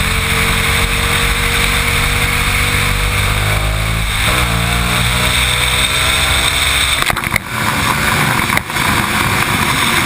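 Aprilia Tuono's big-bore 1127 cc Rotax V-twin engine accelerating hard, the note rising, dropping sharply about four seconds in as it shifts up, then climbing again. About seven seconds in the deep engine sound falls away and the loudness dips twice.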